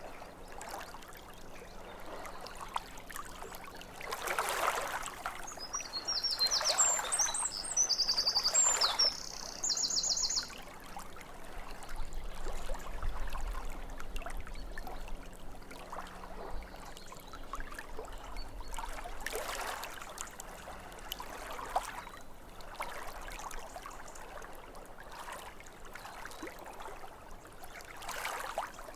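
Small waves lapping at a lake shore in soft, irregular swells every few seconds. A songbird sings a short run of quick high chirps and trills about five seconds in, lasting a few seconds.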